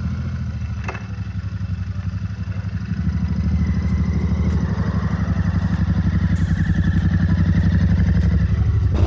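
Cafe racer motorcycle engine idling just after being started, a steady low pulsing beat that grows a little louder about three seconds in.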